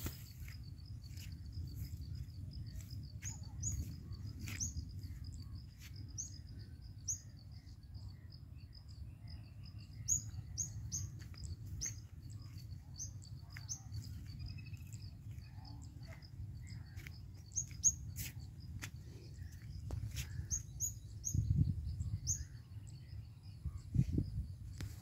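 Birds chirping outdoors: many short, high rising chirps repeating through the whole stretch, over a steady high pulsing trill and a constant low noise.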